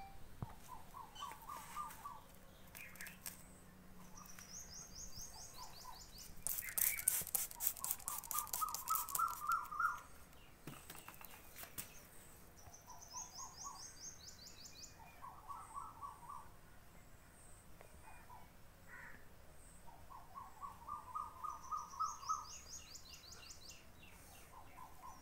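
Small birds singing: a repeated phrase of quick trilled notes, rising slightly, alternating with a higher, faster trill, several times over. About a quarter of the way in, a rapid run of sharp clicks lasting some three seconds is the loudest sound.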